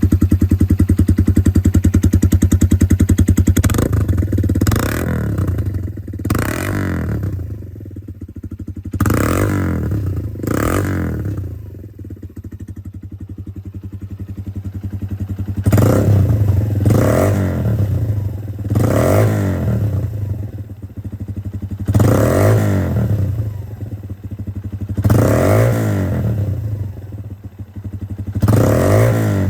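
Suzuki GN125-2F's single-cylinder four-stroke engine running through a modified muffler with its end baffle in place. It idles steadily, then is blipped about eleven times, each rev rising sharply and falling back to idle.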